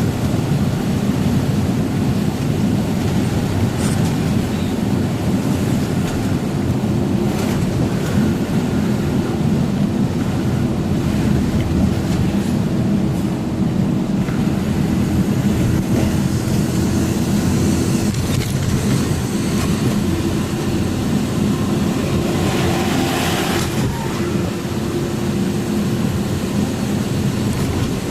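A truck running on the road: a steady, loud, low engine and road rumble. A short higher hiss rises over it near the end.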